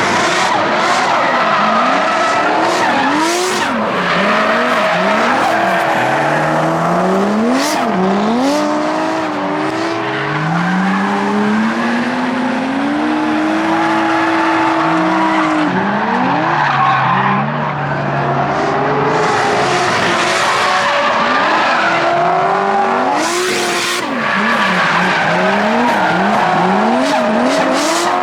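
Drift cars sliding: engines revving hard, their pitch swinging up and down repeatedly, with steady tyre squeal under them. More than one engine is heard at once, their pitches crossing.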